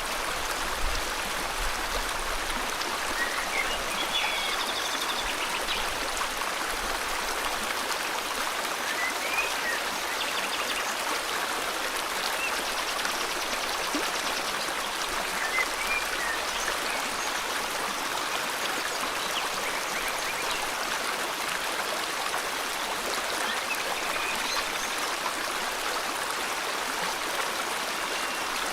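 Steady rushing of river water, with faint bird chirps and a short trill now and then.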